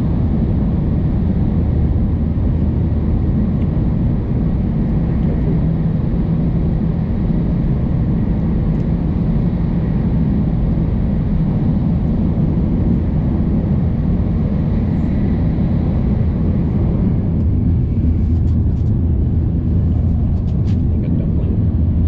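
Shinkansen bullet train cabin noise while travelling: a steady low rumble and hum, with a few faint clicks near the end.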